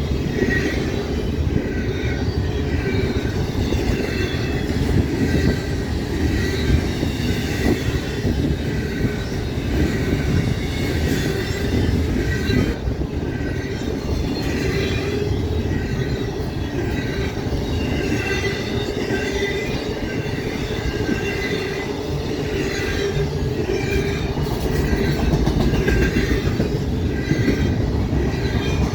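Freight cars of a long train rolling past: a steady rumble of wheels on rail, with high wavering wheel squeal coming and going.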